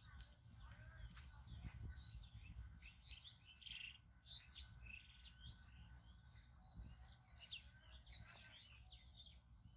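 Small birds chirping and twittering faintly, many short calls one after another.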